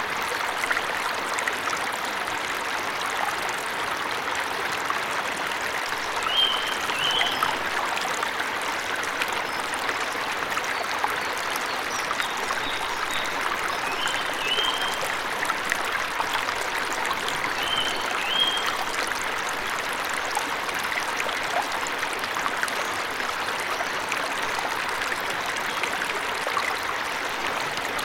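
Waterfall's steady rush of running water. Over it a bird gives short chirps in pairs, three times near the middle.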